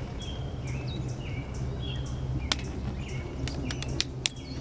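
A small songbird chirping the same short call over and over, over a steady low hum. Several sharp clicks come in the second half.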